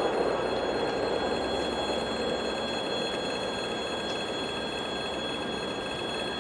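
A ChME3 diesel shunting locomotive moving a cut of wagons: a steady rolling rumble that slowly fades, with several thin, steady high tones over it.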